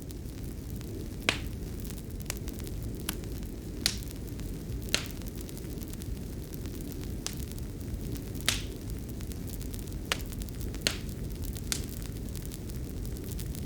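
Wood fire crackling in a fireplace: irregular sharp pops over a steady low rushing noise.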